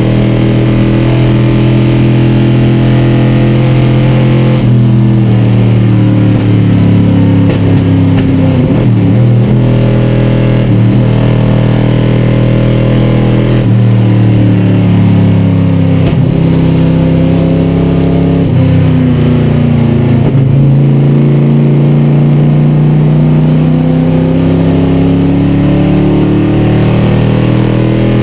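1962 Ford Galaxie's 427 cubic-inch V8 heard loud from inside the cabin at racing pace, its note sagging and climbing again several times as the car brakes and accelerates through corners, with sudden steps in pitch at gear changes.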